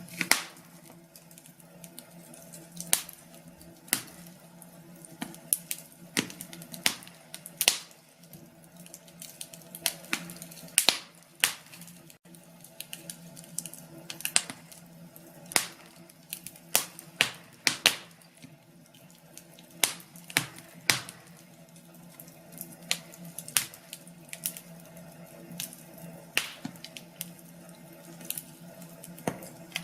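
Wood fire in a fireplace crackling, with sharp irregular pops, some single and some in quick clusters, over a low steady hum.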